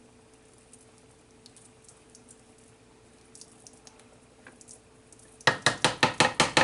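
Low, steady kitchen background with a faint hum and a few light ticks. Near the end comes a quick run of about eight sharp knocks in just over a second.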